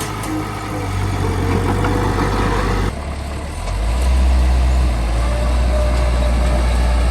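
Small bulldozer's diesel engine running steadily under work. About three seconds in the sound changes abruptly, and from about four seconds the engine drone is deeper and louder.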